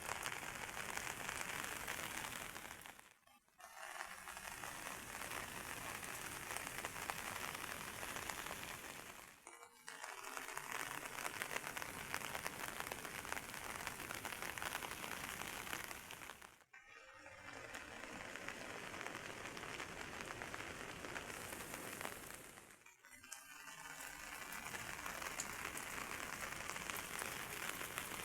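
Heavy rain hissing steadily, with four brief dips in level about six to seven seconds apart.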